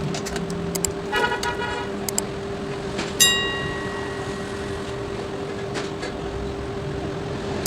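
Background traffic noise over a steady hum, with a short horn toot about a second in, then a sharp ringing strike about three seconds in that dies away over a second or so.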